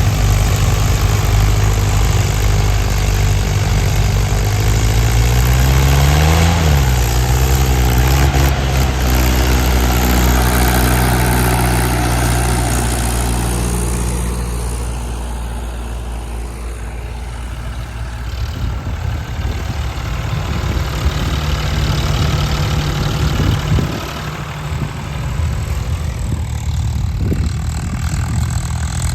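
A heavy machine's engine runs steadily, revs up briefly about six seconds in and drops back. Around eighteen seconds it settles to a different, lower-pitched steady note.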